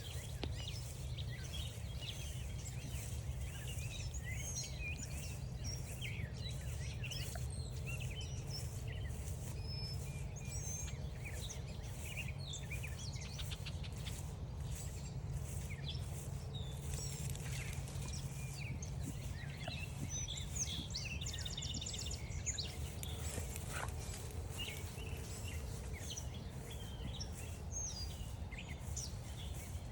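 Several birds singing and calling in woodland, with many short chirps and whistles overlapping and a rapid trill about two-thirds of the way through. Under them run regular soft footsteps of someone walking a trail and a steady low rumble.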